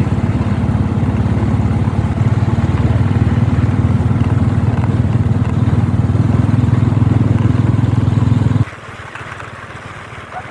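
Motorbike engine running steadily, then cutting off abruptly near the end, leaving a much quieter background.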